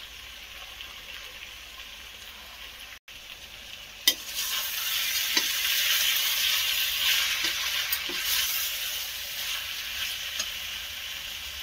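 Jackfruit curry sizzling in a metal kadhai as a spatula stirs it, with a few sharp clicks of the spatula scraping the pan. The sizzle breaks off briefly near three seconds in and grows louder from about four seconds as the stirring picks up.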